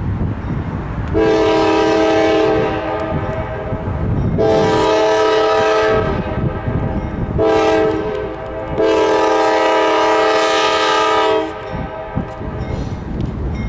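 Norfolk Southern freight locomotive's multi-chime air horn sounding the grade-crossing signal: two long blasts, one short, one long. Under it the train's engines and wheels rumble steadily.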